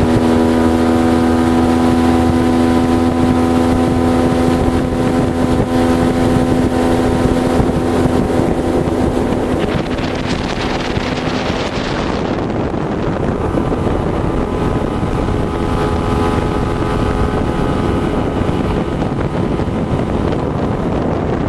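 Motorboat engine running steadily under way, with wind and water rushing past. About ten seconds in, the rush swells louder for a couple of seconds and the engine tone briefly drops back, then it carries on steadily.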